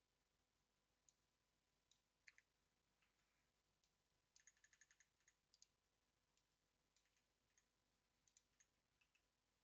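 Faint computer keyboard clicks: scattered keystrokes, with a quick run of typing about four seconds in.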